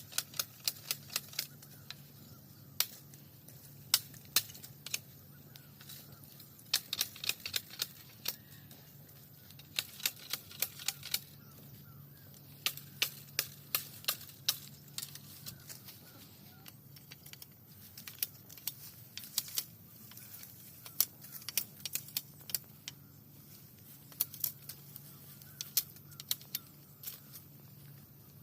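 Irregular sharp clicks and taps, often several in quick succession, over a faint low hum.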